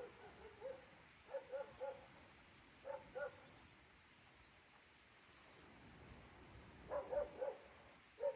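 A dog barking in the distance, in short groups of two to four barks: three near the start, two about three seconds in, another three or four about seven seconds in, and one more at the very end.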